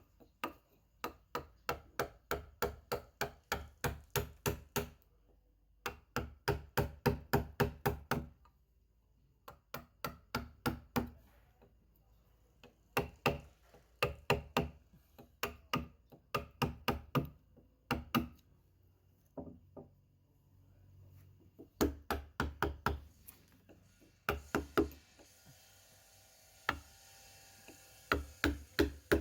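Mallet blows driving a carving chisel into wood, in runs of quick, even taps about three to four a second, with short pauses between runs.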